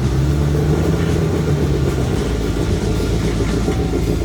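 Off-road vehicle's engine running steadily at low revs, a constant low hum.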